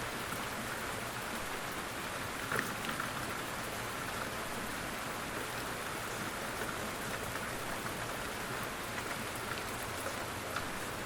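Steady rain falling on a surface, an even hiss with scattered individual drops ticking, one a little louder about two and a half seconds in.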